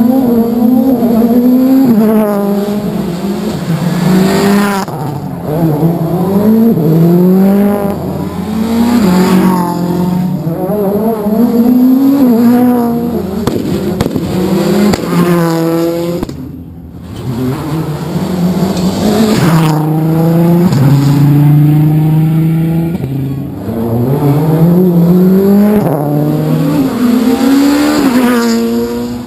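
Rally car engine at full throttle, its pitch climbing and dropping back again and again as it changes gear, with a brief lift off the throttle a little past halfway where it goes quieter before pulling hard again.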